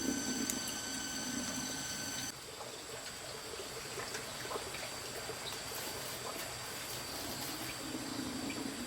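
Water trickling, with a steady noise throughout. A few steady high tones stop abruptly a little over two seconds in, where the sound drops slightly.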